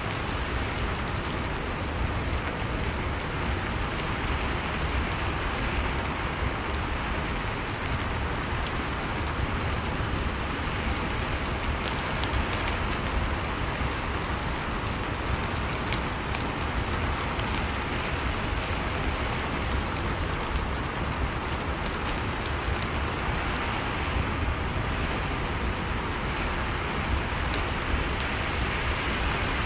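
Steady rain falling, an even hiss with a low rumble beneath and scattered drop ticks.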